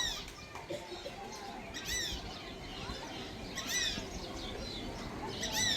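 African grey parrot giving short chirping calls, four of them about two seconds apart.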